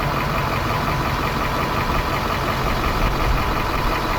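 A vehicle engine running steadily: an even low rumble with a faint steady high tone over it.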